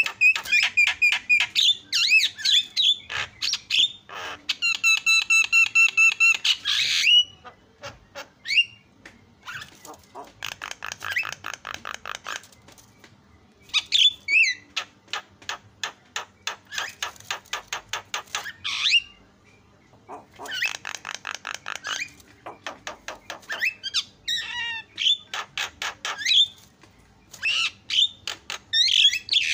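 Javan myna singing a loud, varied song of harsh squawks, whistled notes and long runs of rapid clicking rattles.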